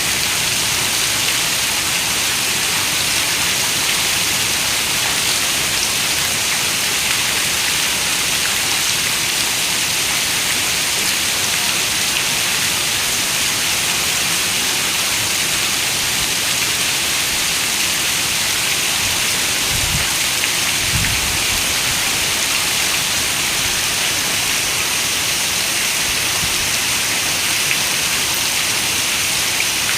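Steady heavy rain, an even hiss, with two brief low rumbles about two-thirds of the way through.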